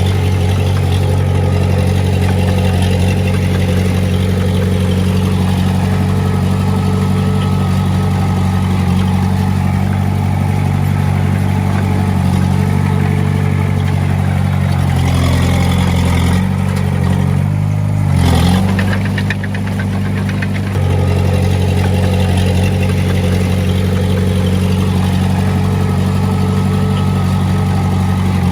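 Diesel engine of heavy earthmoving equipment running steadily. A little past the middle its pitch wavers, it briefly revs and drops back, then it settles to the same steady note.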